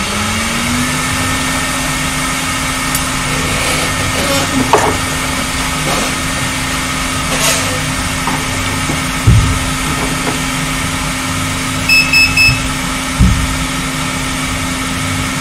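A steady electrical hum whose pitch rises slightly in the first second and then holds. It is broken by a few short knocks of handling and, about twelve seconds in, three quick high electronic beeps.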